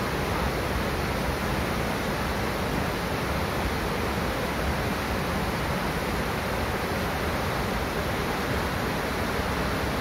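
Waterfall, the water falling in a steady, even rush that does not change.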